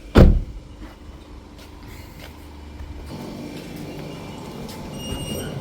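Car door slamming shut once, a loud, sharp thump about a quarter second in. After that there is a steady background hum that grows louder and busier about three seconds in.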